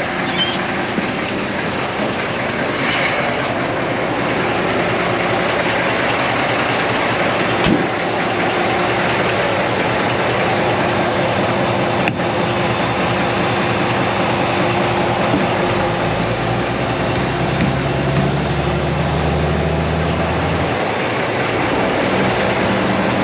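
Semi-truck tractor's diesel engine running steadily, with a deeper, louder engine drone for about five seconds starting around two-thirds of the way in, then easing back.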